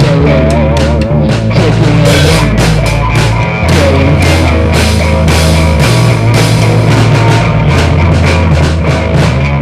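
Loud rock music from a full band, with drums, a steady bass line and guitar.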